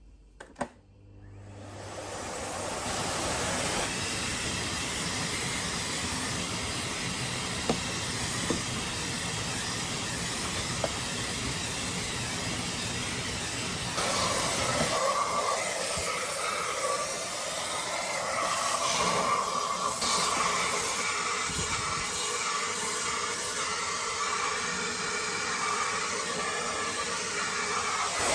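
Vacuum cleaner switched on with a click, spinning up over about two seconds and then running steadily while cleaning dust from a refrigerator's condenser coil. About halfway through, its sound shifts higher and brighter.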